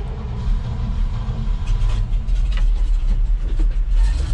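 Engine of farm harvest machinery running steadily, a low, even drone with no break; the level lifts slightly about half a second in.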